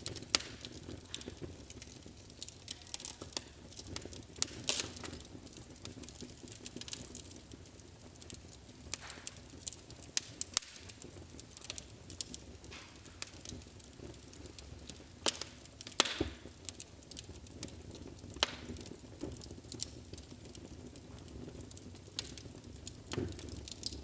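Wood fire burning in a fireplace, crackling with irregular sharp pops and snaps, a few of them louder, over a low steady hiss.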